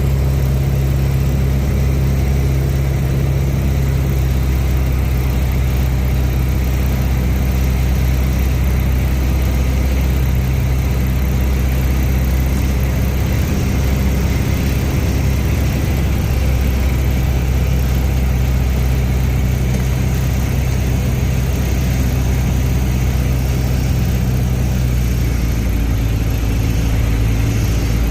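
Piston engine of a Piper light aircraft running steadily in flight: a loud, even drone with a strong low hum, its tone shifting slightly near the end.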